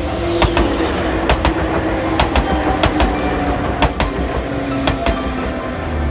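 A train passing, its wheels clacking irregularly over the rail joints, over a steady rumble.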